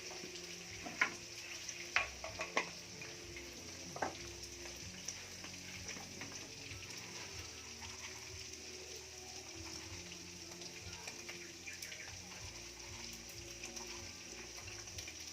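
Hot oil sizzling steadily as pieces of bird fry in a pan, with a few sharp clicks in the first four seconds.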